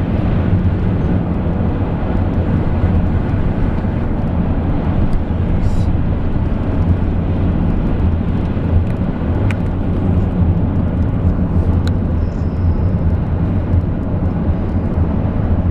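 Steady road and engine noise heard from inside a moving car, with a constant low drone and a few faint ticks.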